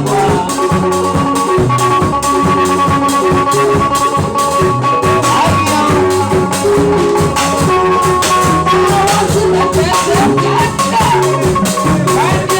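Live band music with a steady beat of drums and a shaker, over a repeating bass line; a long held note sounds from about half a second in until near nine seconds.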